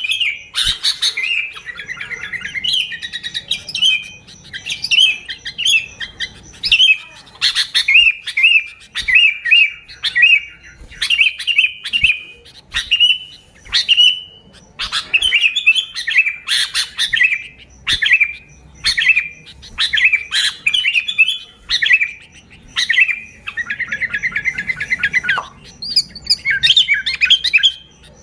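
Sooty-headed bulbul (kutilang) singing: short, bubbly phrases repeated about once a second, with a stretch of rapid chatter near the end.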